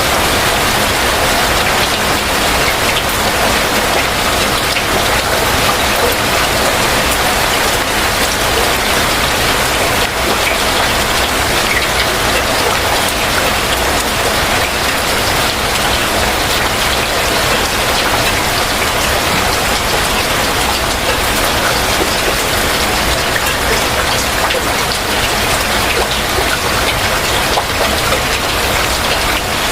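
Steady heavy rain, a dense even hiss with many close drop patters on surfaces.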